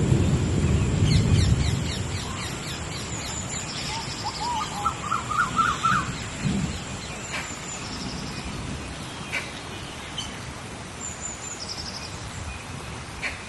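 Tropical rainforest rain storm: a low thunder rumble fading over the first two seconds, then steady rain. Over the rain, bird calls: a quick run of rising chirps in the middle, and short high buzzing calls repeating every few seconds.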